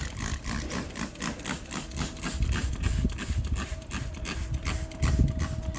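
Self-serve car wash spray wand running, with a rapid, even pulsing from the pump and a steady hum that comes in about two seconds in.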